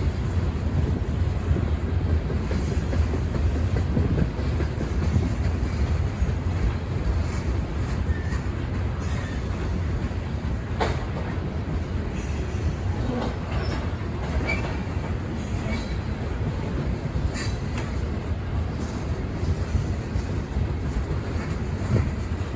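Freight train rolling past: a steady low rumble of cars on the rails, with a few brief clicks and short high wheel squeals along the way.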